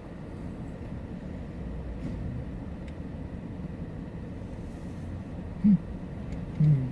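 Automatic car wash machinery running, a steady low rumble heard through a partly open car window. Near the end, two short hums from a person break in.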